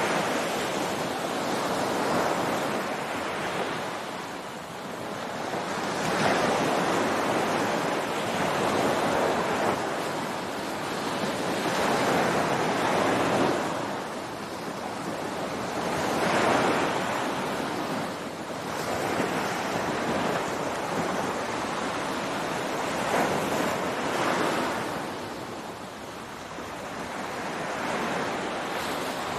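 Ocean waves breaking and washing on a beach, a steady rushing surf that swells and falls back every few seconds, with some wind on the microphone.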